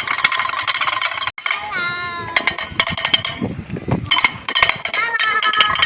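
Traditional tin-can peacock push toy clattering with a rapid 'trotok tok' rattle as it is pushed along. The rattle is loud and noisy, and it breaks off for a couple of seconds in the middle, where a child's high voice is heard.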